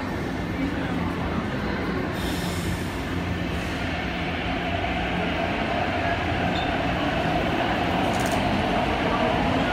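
MTR Ma On Shan Line C-Train running with a steady rumble. A whine joins it in the second half and rises gently in pitch as the sound slowly grows louder.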